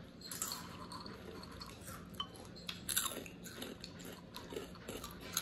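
Hot Cheetos being chewed with the mouth closed: irregular crisp crunches, the sharpest about three seconds in.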